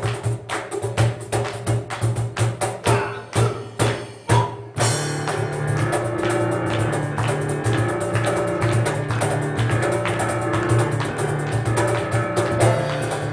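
Instrumental piano and cajón duo playing live: a fast run of sharp cajón strikes with piano, then about five seconds in the music opens out into full, sustained piano chords over a steady low line and continuing beat.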